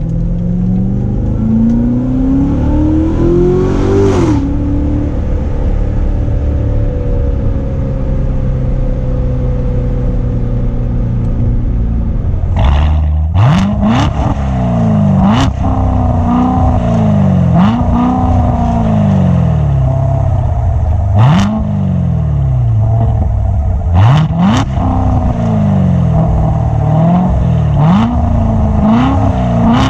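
Supercharged 6.2-litre LT4 V8 of a 2016 Corvette Z06 pulling up through the revs for a few seconds, then dropping back and running steadily. From about halfway on it is revved in a series of quick throttle blips, each rising sharply and falling away, with a sharp crack at several of the peaks.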